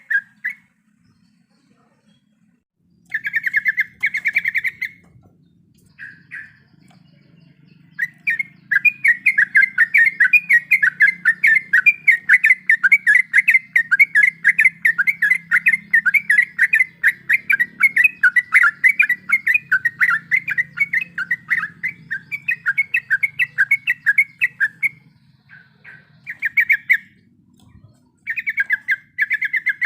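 Yellow-vented bulbul (trucukan) singing in rapid chattering runs of repeated notes. A few short bursts come first, then one long unbroken run of about seventeen seconds, then more short bursts near the end.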